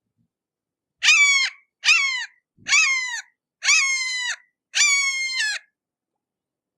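Hawk giving five harsh, scratchy calls about a second apart, each dropping in pitch at its end.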